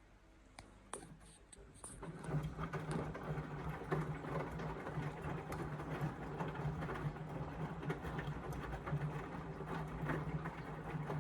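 Indesit washing machine starting up after a few light clicks: about two seconds in, its motor and drum start running with a steady hum and a rough, rattling, swishing noise that carries on.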